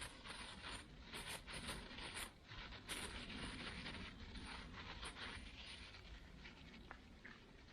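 Plastic bag crinkling and rustling irregularly as it is kneaded to mix a powdered spread with water; the crinkling thins out near the end.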